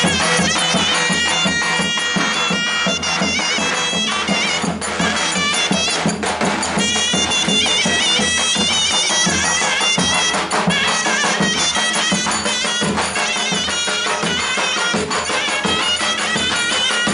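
Loud traditional Turkish folk music: a shrill, reedy wind melody with quick wavering ornaments over a steady low drone, playing without a break.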